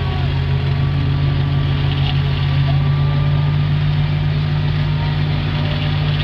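Ghazi tractor's diesel engine running steadily at a constant speed, with a strong low hum.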